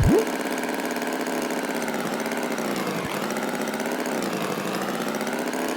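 Cartoon tractor engine running steadily at idle, a continuous even hum. A brief loud swooping sound effect dips down and back up right at the start.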